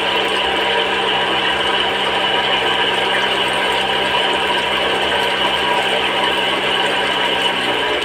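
12-volt battery sprayer pump motor running steadily under water load: a continuous mechanical hum with a high-pitched whine and a rough grinding noise on top. The noise comes from a worn motor bearing, which the repairer says must be changed.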